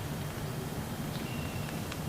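Steady rain falling, a constant hiss with a few sharp drop ticks, and a faint short high tone about a second and a half in.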